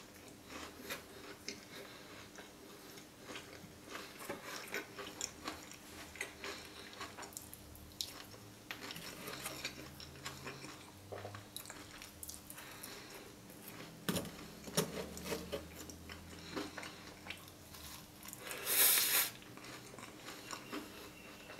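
Close-miked chewing of a crisp Nutella waffle with whipped cream: a steady run of small crunches and wet mouth clicks, with a louder brief noise near the end.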